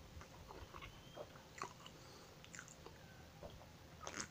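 Faint chewing and lip-smacking mouth sounds with light clicks, then a louder sip from a plastic cola bottle near the end.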